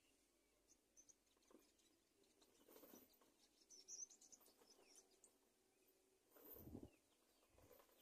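Near silence, with faint, short, high bird chirps and one soft low thud late on.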